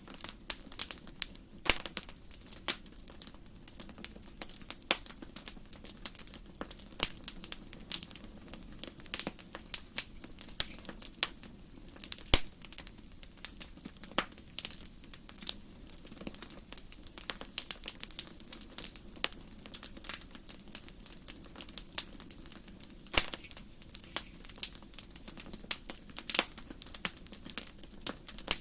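Wood fire burning in a fireplace: steady crackling with irregular sharp pops over a low hiss.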